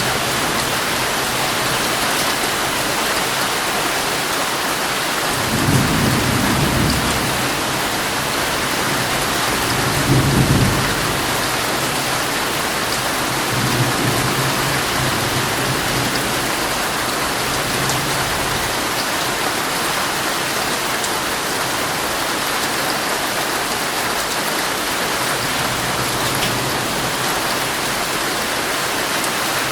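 Heavy rain pattering steadily on a tent, with rolls of thunder: two louder rumbles about six and ten seconds in, then fainter rumbles later.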